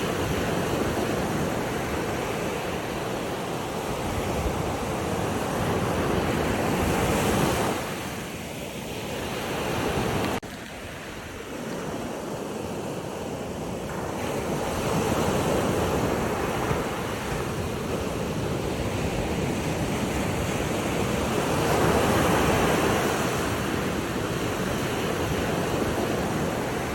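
Ocean waves washing ashore, an even rushing noise that swells and ebbs over several seconds, with a sudden drop in level about ten seconds in.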